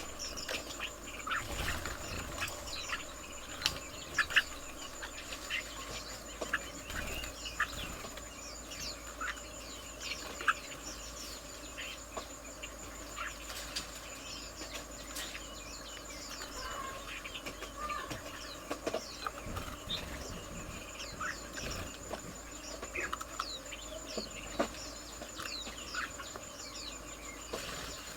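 Birds chirping and calling in a garden, a busy scatter of short falling notes with occasional clicks, over a steady high thin insect-like buzz.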